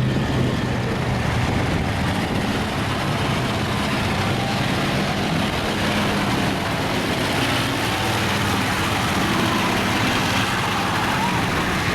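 Mud truck engines running at a steady pitch, with a constant noisy rush over them.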